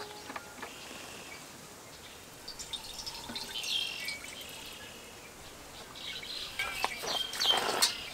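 Birds chirping in short high calls, in two bursts. The second burst comes with a few brief knocks or clatters.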